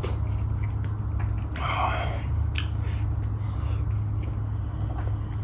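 Close-miked eating: a mouthful of dhido and dal being chewed, with wet, squishy mouth sounds and small clicks over a steady low hum.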